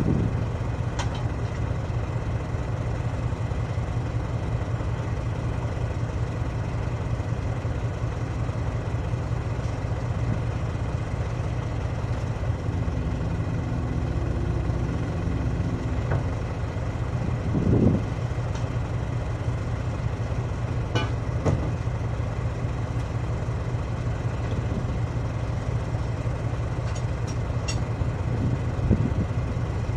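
Heavy-equipment engine idling steadily, with a few short metallic knocks and clanks from the tyre work.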